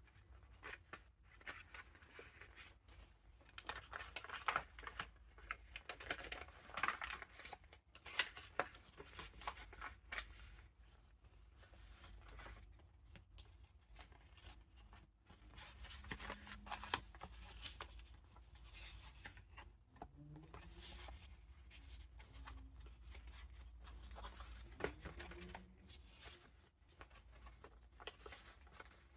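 Paper pages and ephemera of a junk journal being turned and handled: irregular rustling, crinkling and flapping of paper with light taps, busiest in the first third.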